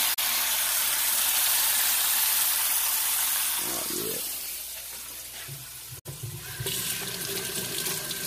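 Kitchen tap running water into a sink, a steady rushing hiss that eases off after a few seconds, then runs again near the end.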